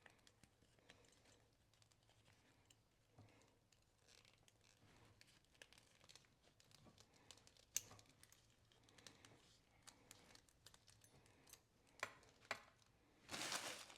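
Faint handling of a leather belt and its metal buckle: scattered small clicks and rustling, with a louder rustle near the end.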